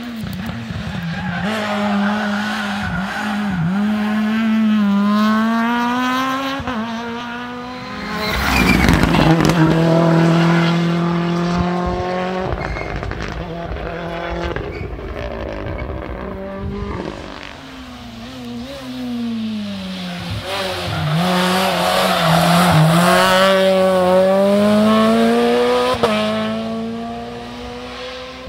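Rally car engine at full throttle on a special stage, its pitch climbing and dropping back at each gear change. Loudest as it passes about eight to ten seconds in, then building again towards a second peak near the end.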